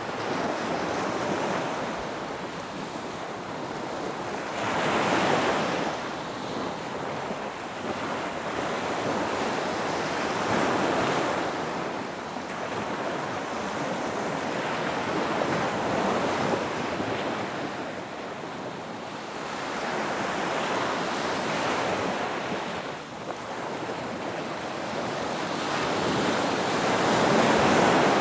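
Ocean surf breaking on a beach: a steady wash of water that swells and falls as waves come in, a surge every five or six seconds, loudest near the end.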